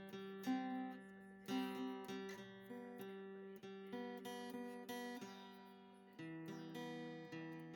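Background music on acoustic guitar: plucked notes and strummed chords at a slow, gentle pace, with a chord change about six seconds in.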